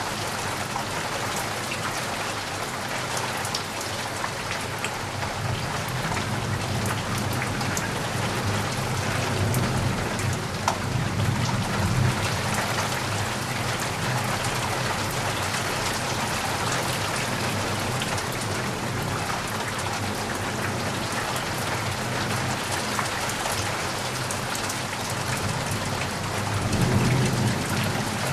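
Steady rain falling on surfaces, with a low thunder rumble swelling about ten seconds in and again near the end.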